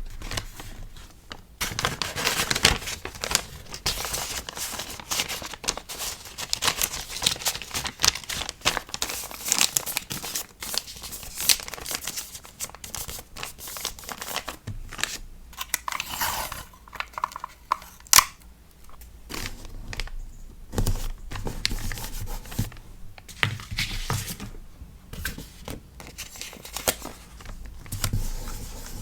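Hand-packing of a sticker order: packaging is handled with continuous crinkling, rustling and some tearing, broken by small taps and clicks. One sharp click about two-thirds of the way through is the loudest sound.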